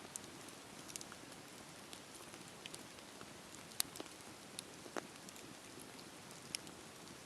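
Campfire crackling: a soft steady hiss with sharp pops scattered through it, the loudest just before four seconds in.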